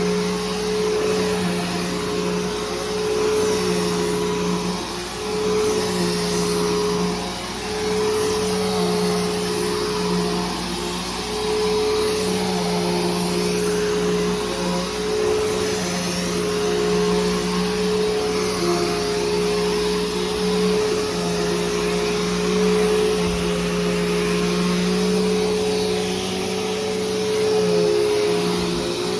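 Bissell Powerforce Helix Turbo upright vacuum cleaner running steadily, freshly refurbished with a new belt and brushroll. Its motor drone holds one pitch while the overall loudness rises and dips a little.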